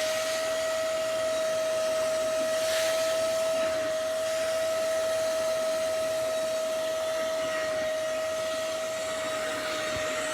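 Hoover ONEPWR CleanSlate cordless carpet and upholstery spot cleaner running with its suction motor on, a steady whine over a hiss, with a brief stronger hiss about three seconds in.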